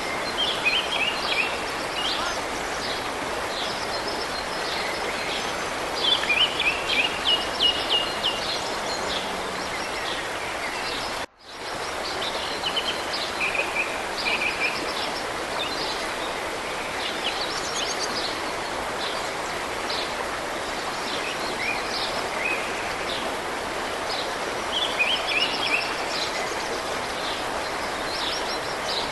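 Songbirds singing repeated quick trills and chirps over a steady rushing background. The sound cuts out for an instant about eleven seconds in.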